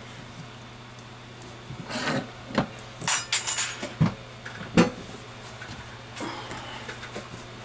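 Tools and parts being handled on a repair bench: a cluster of knocks, clicks and short scrapes from about two to five seconds in, over a steady low hum.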